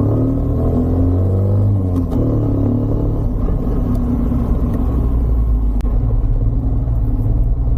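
Motorcycle engine running under way, with a heavy low rumble of wind. The engine pitch rises over the first two seconds, dips briefly, then runs on steadily.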